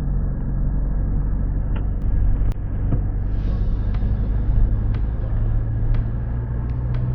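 Motor vehicle running with a steady low rumble, with a few light clicks and knocks over it.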